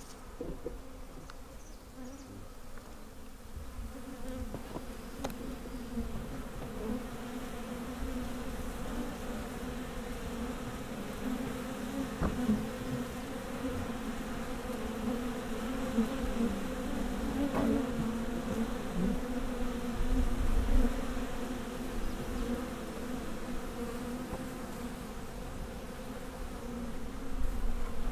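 Many honeybees buzzing at an opened hive: a dense, steady hum that grows gradually louder, with a brief low rumble about two-thirds of the way in.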